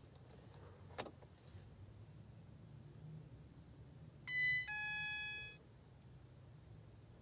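A sharp click about a second in, then about four seconds in a Ford Connect's dashboard chime: a short high beep followed straight away by a lower tone lasting under a second, as the ignition is switched on before a cold start.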